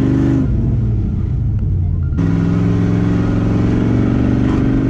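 1972 Chevelle SS's 383 stroker small-block V8 with a big cam, heard from inside the cabin while driving. The throttle eases off about half a second in, then comes back on sharply just after two seconds, and the engine pulls steadily.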